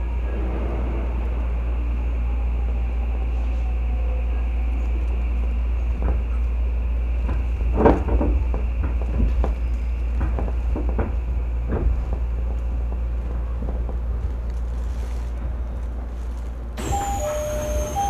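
Odakyu 3000 series electric commuter train: a steady low rumble with a steady hiss, with scattered clicks and knocks in the middle, the loudest about halfway through. Near the end the sound changes suddenly and a repeating two-note electronic tone starts.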